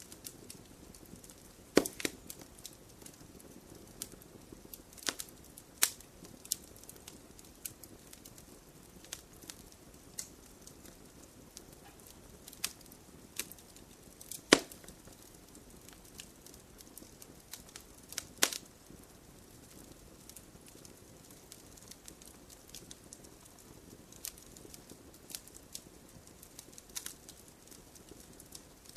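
Campfire of wood burning in a stone fire pit, crackling: irregular sharp pops and snaps over a low hiss, with a few louder pops such as one about halfway through.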